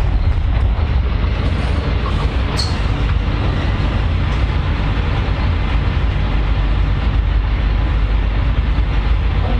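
Train running at speed, a steady loud low rumble of the carriage on the rails, with one brief high squeak about two and a half seconds in.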